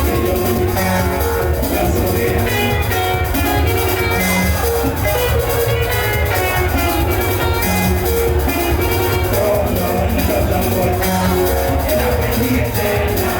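Live band music: an electric guitar picking quick runs of short notes over a steady bass line and drum beat.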